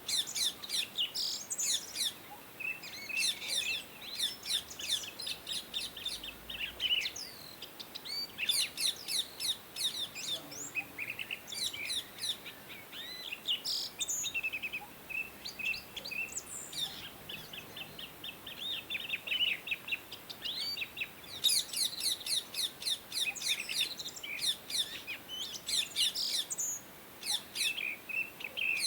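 Indian ringneck parrots chirping: bouts of rapid, high, sweeping chirps with short pauses between them.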